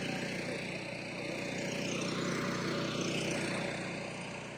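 A vehicle engine running, growing louder for about two and a half seconds and then fading away.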